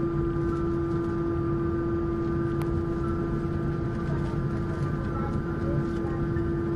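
Steady cabin noise inside an Airbus A321 airliner: a constant droning tone over a low rumble, with a few faint ticks.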